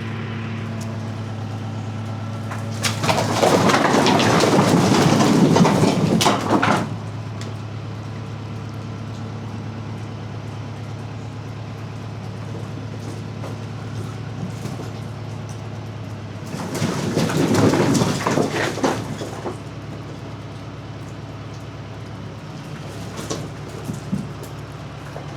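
Tractor engine idling steadily. Two loud bursts of noise break over it, one about three seconds in lasting some four seconds, and another about sixteen seconds in lasting about three seconds.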